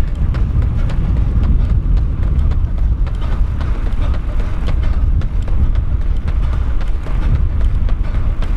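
Wind rumbling across the microphone, with a runner's quick footfalls ticking about three times a second during a fast 400 m repeat.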